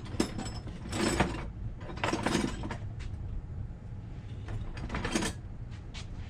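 Ratchet wrench clicking in three short bursts, working nuts off a brake backing plate assembly.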